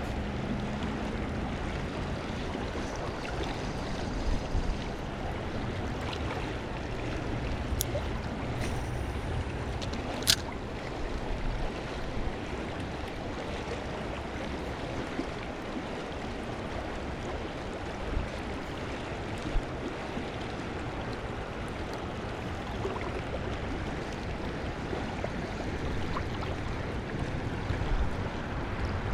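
Stream water flowing steadily over the streambed, with a couple of short, sharp clicks about a third of the way through.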